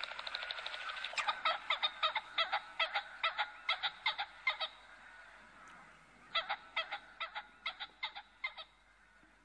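Repeated harsh bird calls: a quick run of notes, then two series of separate calls at about four a second with a short pause between.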